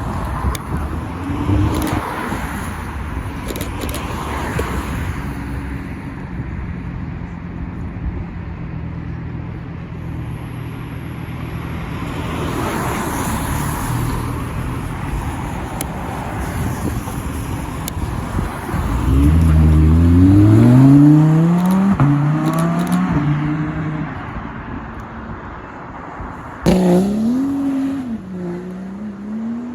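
Supercar engines running as cars pull away. About two-thirds through, one accelerates hard, its pitch rising, dropping at a gear change, then rising again. Near the end another engine starts up loudly, its pitch wavering up and down.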